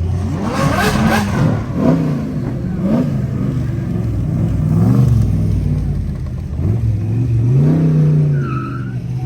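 A car engine revving repeatedly, its pitch climbing and dropping with each rev. There is a loud burst about a second in and a longer rev near the end.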